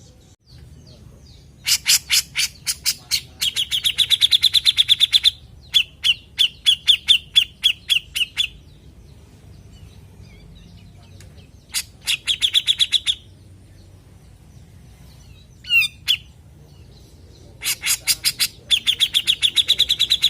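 Grey-cheeked bulbul (cucak jenggot) singing in loud repeated phrases: rapid strings of sharp notes, about ten a second, running into a fast high trill. A short swooping call comes between the last two phrases.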